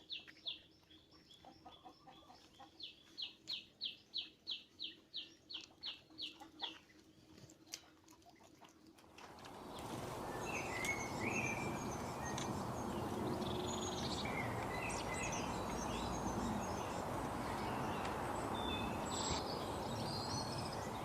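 Bird calls. First a single bird repeats a sharp, high note about three times a second for several seconds. About ten seconds in, a steady background hiss begins and several birds chirp over it with varied short notes.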